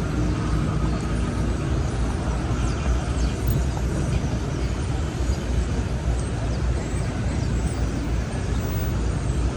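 City street ambience: a steady rumble of road traffic with cars passing.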